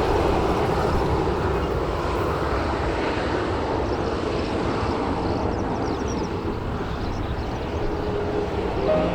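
Boeing 737-800 airliner's CFM56-7B jet engines running, a steady rushing noise with faint whining tones coming in near the end.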